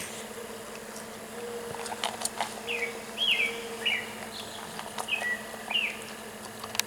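A bird calling in a run of short chirps, each sliding down in pitch, over a faint steady hum, with scattered soft clicks and one sharp click near the end.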